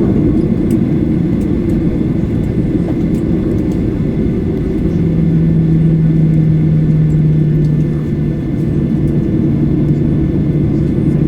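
Steady cabin noise inside a Boeing 737-800 after landing: a loud low rumble of engines and air systems, with a steady hum joining about five seconds in.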